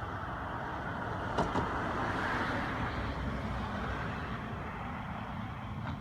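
A car passing by on a nearby road, its noise swelling to a peak a couple of seconds in and then fading away, with two light clicks about a second and a half in.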